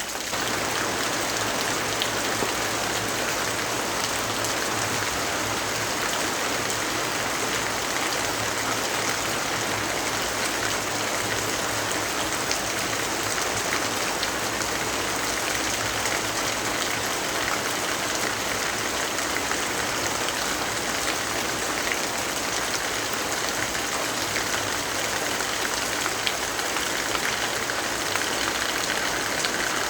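Steady rainfall: a dense, even hiss with scattered faint ticks.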